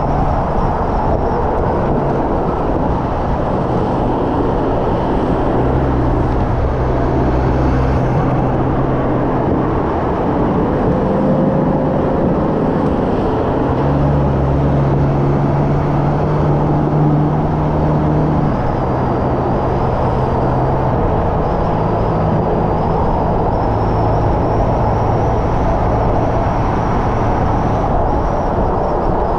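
Hyundai Elantra N's turbocharged four-cylinder engine driven hard on track, its note stepping up and down every few seconds with throttle and gear changes, over a loud steady roar of road and wind noise.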